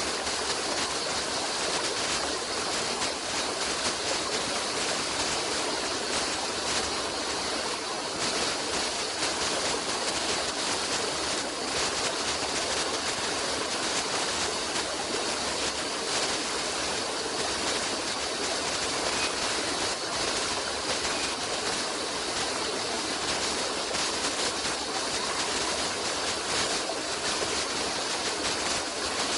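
Stream of water flowing steadily over rocks, a continuous even rushing and splashing that does not change.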